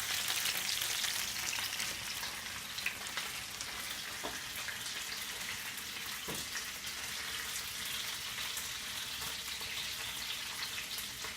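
Flour-coated chicken pieces frying in hot grease in a skillet: a steady sizzle, with a couple of faint knocks partway through.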